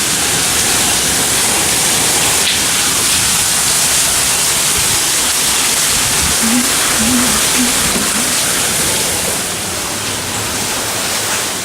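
Hurricane rain and wind: a loud, steady rushing hiss of heavy rain, with gusts buffeting the microphone.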